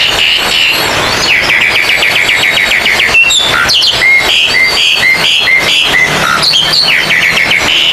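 Oriental magpie-robins (kacer) singing loudly. A fast run of sweeping chirps gives way to a string of clear, repeated whistled notes at about three a second. A low hum comes in about six seconds in.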